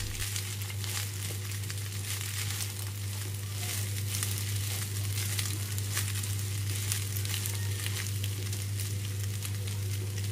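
Leftover rice and egg frying in sunflower oil in a pan on low heat: a steady sizzle with fine crackling, over a steady low hum.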